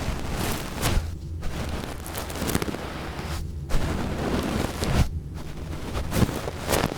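Close scratching and rubbing right against a 3Dio binaural microphone's ear, with low rumbling thumps. It comes in stretches broken by brief pauses about a second in, midway and about five seconds in.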